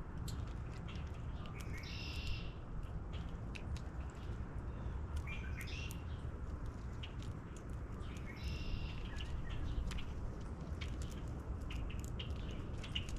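Wild birds calling around a backyard feeder: three short, high calls about three seconds apart, with scattered small chirps, over a steady low rumble of outdoor background noise.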